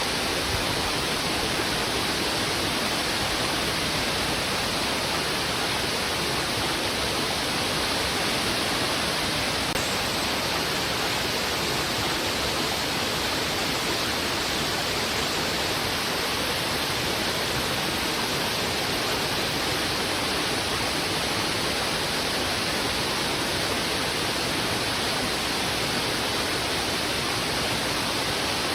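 Heavy river current rushing over rocks: a steady, dense hiss of flowing water with no breaks.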